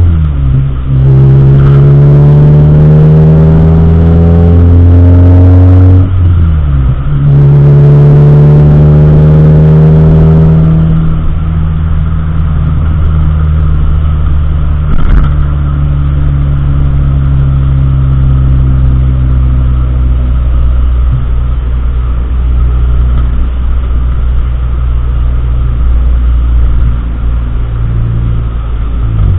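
Car engine accelerating through the gears, its pitch rising and then dropping at a shift about six seconds in, rising again, then settling into a steady low drone with road rumble.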